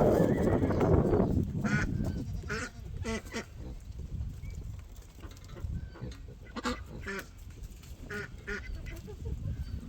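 Ducks quacking in short calls spread through, some in quick pairs, after a loud rushing noise that fades out over the first second.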